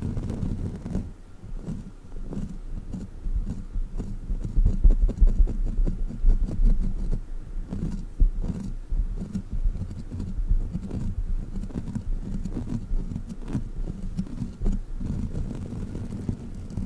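Sticky rubber crawler toy being pressed, stuck and peeled against the microphone: a close, dense run of low, irregular thumps and rumbles with small sticky ticks and crackles.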